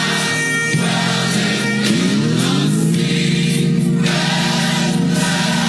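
Gospel choir singing with music, long held notes, one of them sliding up to a higher pitch about two seconds in.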